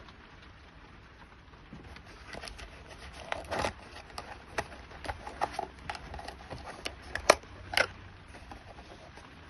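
Hands handling small parts and wiring of a speed controller install: an irregular run of light clicks, taps and short scrapes, with a sharper click and a longer scrape near the end, over a steady faint hiss.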